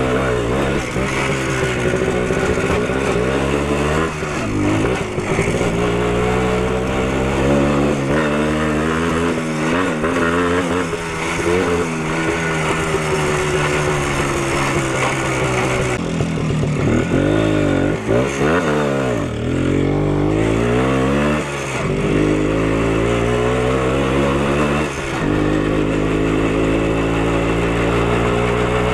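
Minsk motorcycle's single-cylinder two-stroke engine running on the road, its pitch wavering with the throttle. A little past the middle the engine speed rises and drops several times in quick succession, as when revving through gear changes.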